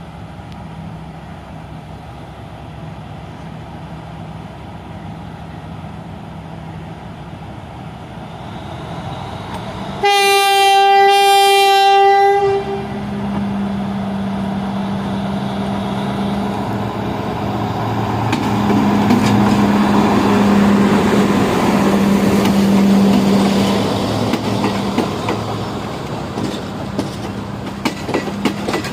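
Sri Lanka Railways Class S9 diesel multiple unit with its replacement engine running steadily. About ten seconds in, one long horn blast on a single note lasts about two and a half seconds. The engine then grows louder, and near the end the wheels click over rail joints.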